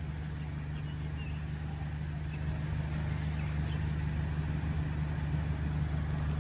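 Toyota Corolla Altis engine idling steadily with a low, even hum.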